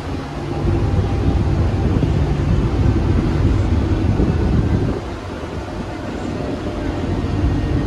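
Electric suburban local train running at speed, heard from an open doorway: a steady rumble of wheels on the track with rushing wind. It drops a little in level for a couple of seconds about five seconds in.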